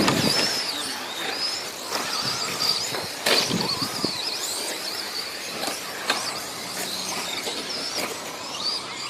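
Radio-controlled 2wd short course trucks racing: a thin high-pitched whine that keeps rising and falling as the trucks accelerate and brake, with a few sharp knocks from the trucks hitting the track.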